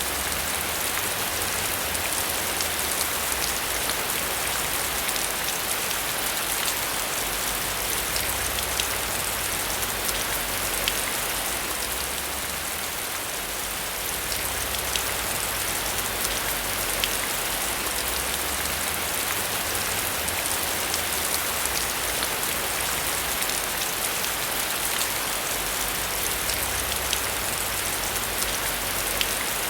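Steady heavy rain, a dense hiss with many individual drops pattering on a surface and a low rumble that swells and fades underneath.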